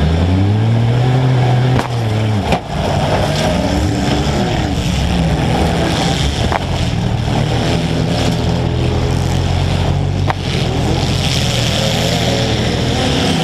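Demolition derby car's engine running loud close to the microphone, revving up and down as the car maneuvers, with a few sharp knocks of metal hitting metal, about two seconds in and again around ten seconds.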